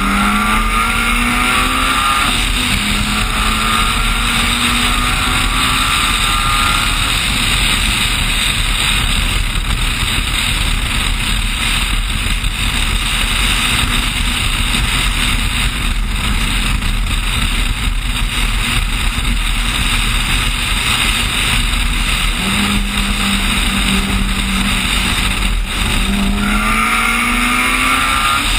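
Turbocharged Honda Civic accelerating hard at highway speed in a roll race, its engine note rising, breaking at a gear change, and rising again in the first few seconds. Through the middle the engine is mostly covered by heavy wind rush on the outside-mounted camera, and it climbs again near the end.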